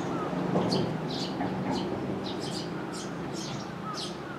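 Small birds chirping: many short, high notes that sweep downward, two or three a second, over a steady low hum.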